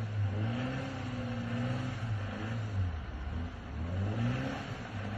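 Car engine revving unevenly, its pitch rising and falling again and again over a steady hiss, as the car struggles for grip on a snow-covered road.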